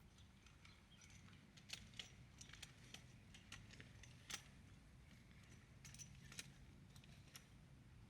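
Near silence, with faint, irregular light clicks and taps scattered over a low steady hum.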